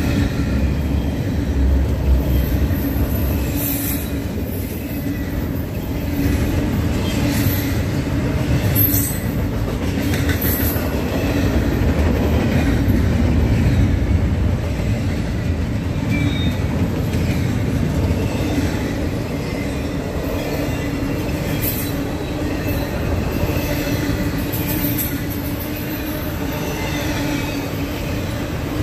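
Double-stack intermodal freight cars rolling past on steel rails: a steady rumble of wheels on track, broken a few times by brief high-pitched wheel squeals.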